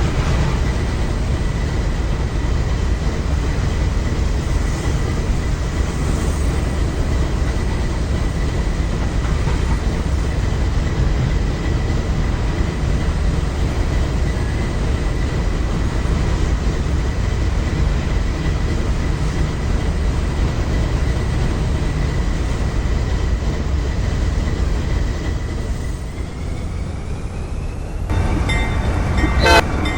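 A train rolling past with a steady rumble of wheels on rail and a thin, steady high tone above it. Near the end the sound changes abruptly to several steady tones, with a sharp click just before the end.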